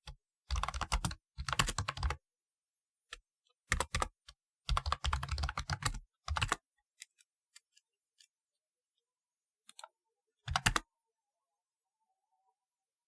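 Typing on a typewriter-style keyboard: several quick runs of keystrokes in the first half, then a few separate key presses and one last short run a little after ten seconds in.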